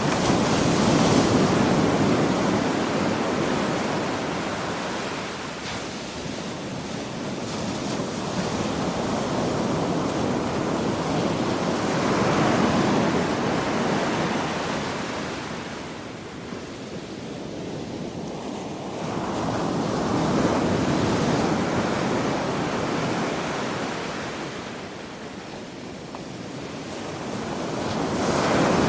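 Ocean surf: waves breaking and washing up the shore in four slow surges, each swelling to a rush and then fading.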